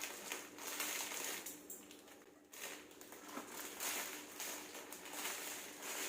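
Irregular crinkling and crunching handling noise in uneven surges, over a faint steady hum.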